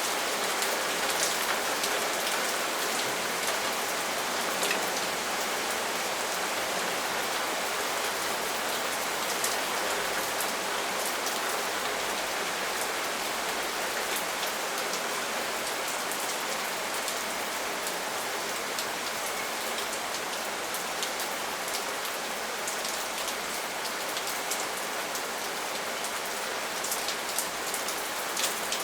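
Steady rain falling on a surface: a dense, even hiss with single drops ticking out of it here and there.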